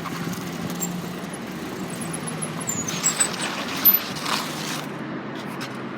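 A motor vehicle running, a steady low hum over background noise, with a few faint clatters about three to four seconds in.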